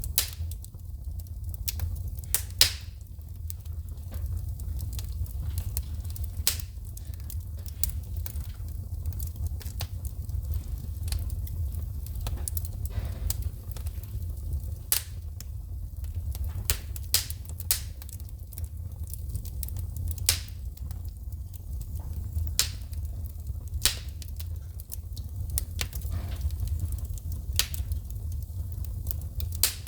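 Wood fire crackling, with irregular sharp pops and snaps of sparking wood, a few a second, over a steady low rumble.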